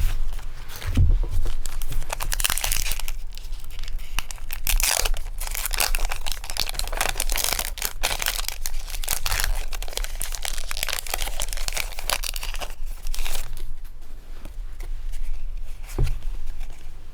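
Pokémon trading-card booster pack being torn open and its foil wrapper crinkled by hand, a run of uneven tearing and crackling.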